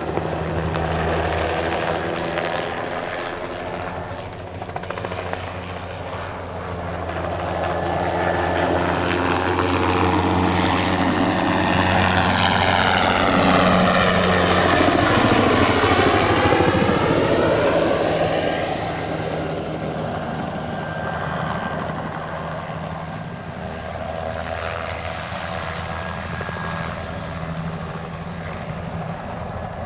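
Single-turbine crop-spraying helicopter making a low pass. The rotor and turbine sound grows louder, peaks about halfway through with a sweeping whoosh as it goes by, then fades back to a steadier drone.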